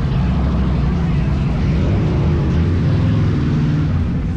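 Motorcycle engines running in a steady, deep drone.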